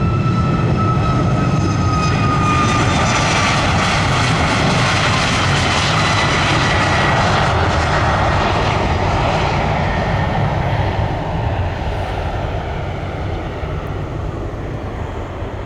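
Jet airliner on landing approach passing low overhead: a high engine whine slides down in pitch over the first few seconds under a rising roar, which peaks mid-way and then slowly fades as the aircraft moves off.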